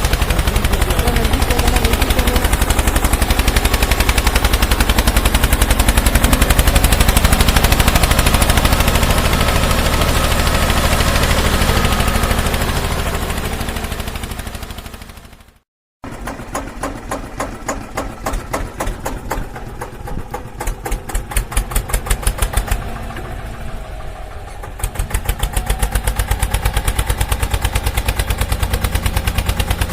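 Tractor-style engine sound with a fast, even chug. It fades out a little past halfway, stops for a moment, then starts again with an uneven, pulsing chug before settling back into a steady run.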